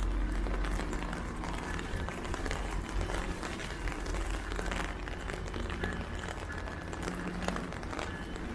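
Heavy rain falling steadily, with many small sharp drop ticks close by, over a steady low rumble.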